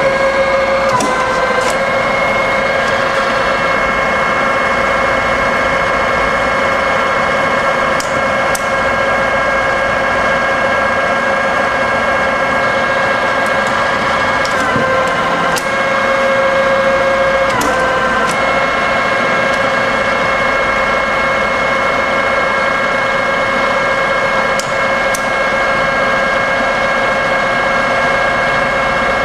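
Cincinnati No. 12 rise-and-fall milling machine running through its automatic cycle: a steady whine of several held notes that dips briefly in pitch a few times. Sharp clicks come mostly in pairs about half a second apart, a few times over the cycle.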